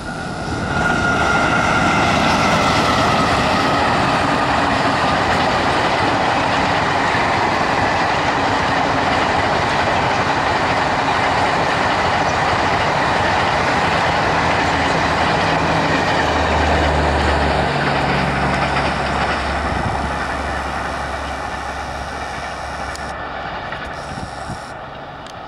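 Passenger express hauled by a WAP-5 electric locomotive passing close at speed: a loud, steady rush and rattle of coach wheels on the rails, with a whine that falls in pitch about a second in. The noise fades slowly over the last few seconds as the train draws away.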